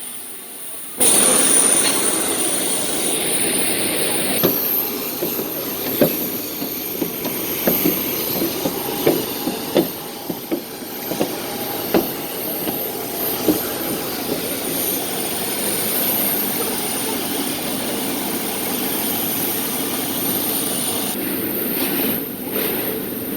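Jet airliner engine noise with a steady high whine, getting suddenly louder about a second in. Irregular knocks and rattles run through the middle part.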